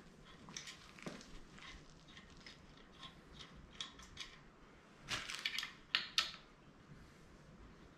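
Small metal tools and parts clinking and rattling as a belt grinder is put together by hand, with a quick run of louder clinks about five to six seconds in.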